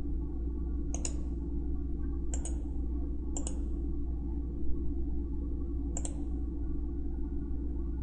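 Computer mouse clicking four times at irregular intervals over a steady low hum.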